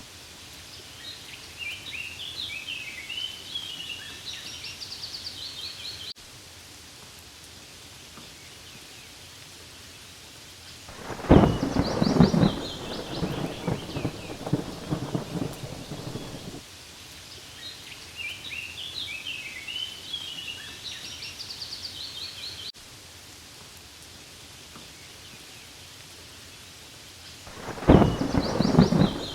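Steady rain falling on leaves, with a bird chirping in short runs twice. Thunder rumbles loudly about eleven seconds in for around five seconds, then again near the end.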